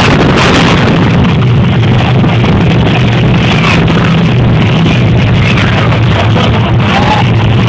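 Monster truck engine running at a steady loud drone, the recording overloaded and distorted by the volume, with arena music mixed in.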